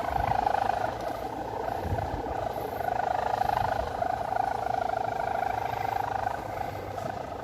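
Strong wind buffeting the microphone in low gusts, over a steady, slightly wavering droning hum.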